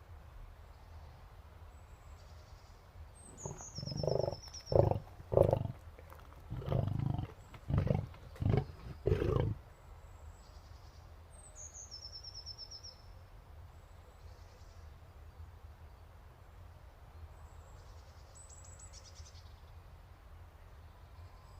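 Lion roaring: a series of about seven deep calls over some six seconds, the first ones longer. A bird gives a short falling chirp twice.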